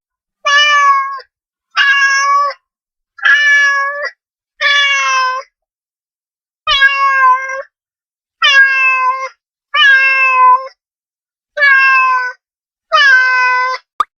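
Domestic cat meowing nine times, each meow under a second long with short pauses between.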